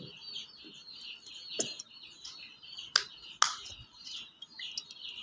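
Small birds chirping rapidly and without pause, with sharp clicks cutting through: one about a second and a half in, and two louder ones close together about three seconds in.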